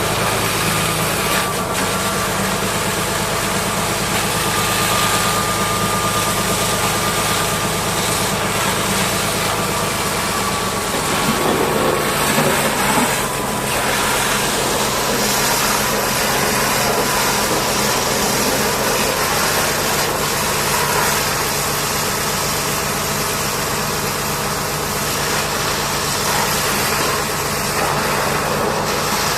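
A large engine idling steadily under an even hiss, its tone shifting about eleven seconds in.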